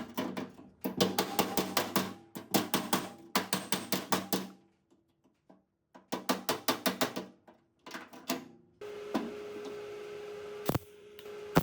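Rapid hammer blows on the door's sheet steel, about six a second in bursts with pauses, each blow ringing: the cracked door panel being hammered back into line before welding. A steady hum with a few clicks comes in about nine seconds in.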